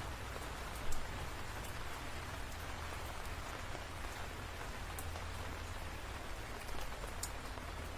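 Steady rain falling, with a few separate sharp drop hits standing out, the loudest about a second in.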